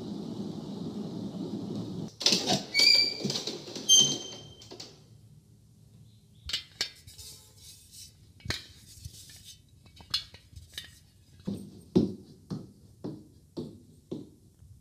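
A steady rushing noise cuts off about two seconds in. Then comes a burst of dishes and utensils clinking, with ringing metallic tones. After that, scattered quiet knocks, and near the end a run of soft steps about two a second.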